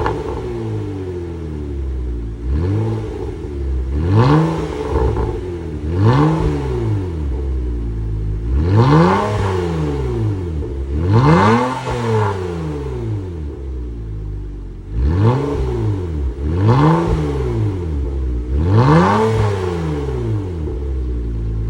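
Kia K7 with a custom variable-valve dual exhaust, its engine blipped about eight times from idle. Each rev rises and falls back in pitch, with a steady idle between.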